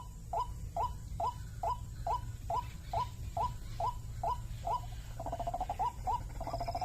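White-breasted waterhen calling: a short call note repeated evenly about two and a half times a second, breaking into a faster bubbling run about five seconds in, over a steady low hum.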